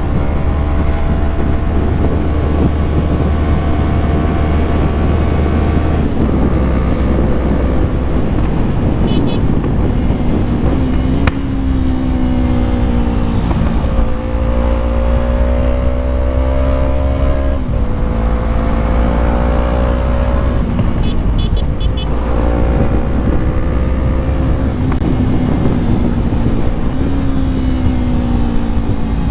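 Yamaha MT-03's 321 cc parallel-twin engine under way, its pitch climbing and then dropping sharply several times as the rider changes gear, over a steady low rumble.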